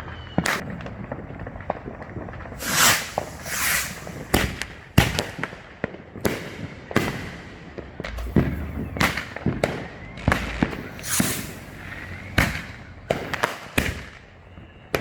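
Consumer fireworks going off across a neighbourhood: a continuous barrage of sharp bangs and crackling aerial shell bursts, some with whistling rises, one after another every second or so.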